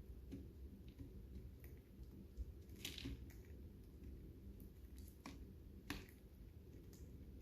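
Lovebirds eating seed: faint, irregular small clicks and crunches of beaks cracking husks, the strongest a short crunch about three seconds in, over a steady low hum.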